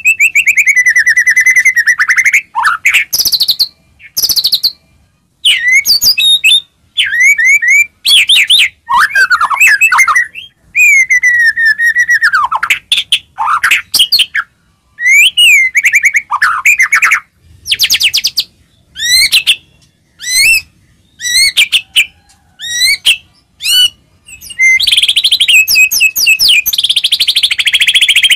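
White-rumped shama (murai batu) in full song: loud, varied phrases of clear whistles that slide up and down, mixed with fast chattering trills, broken by short pauses. Near the end it goes into one long, dense, rapid phrase.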